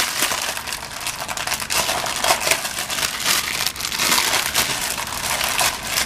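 Packet of chocolate mix crinkling and rustling as it is handled and opened, with a continuous run of crackles.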